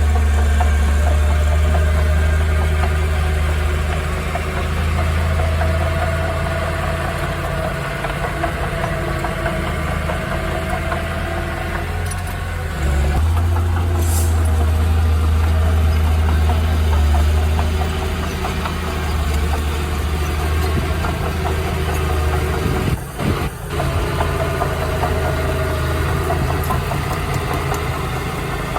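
Heavy earthmoving machine's diesel engine running steadily with a deep drone. It grows louder about thirteen seconds in and dips briefly a little after twenty-three seconds.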